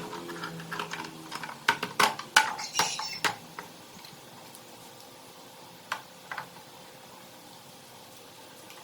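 Several sharp metallic clinks and knocks, bunched in the first few seconds, with two fainter clicks later. Under them a low engine hum fades away.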